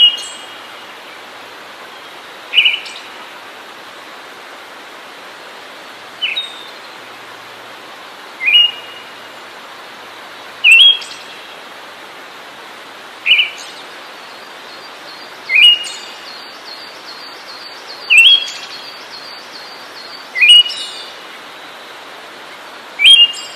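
A bird repeating one short, rising call about every two and a half seconds over a steady hiss. A faint rapid ticking joins in during the last several seconds.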